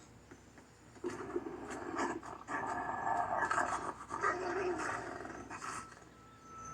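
Dog-like animal vocal sounds from a cartoon soundtrack, in a run of irregular bursts from about a second in until near the end.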